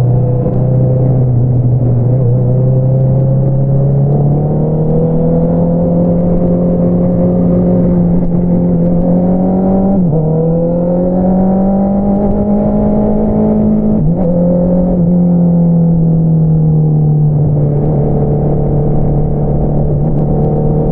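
Honda CBR650R inline-four running through an Akrapovič single-outlet exhaust under way. The engine note climbs gradually, dips sharply twice for a moment about halfway through and again a few seconds later, then falls as the rider eases off near the end.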